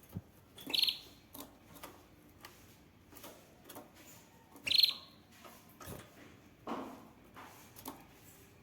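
Canary giving two short, fast trills about four seconds apart, with a dull low rustle near the end and a few small clicks.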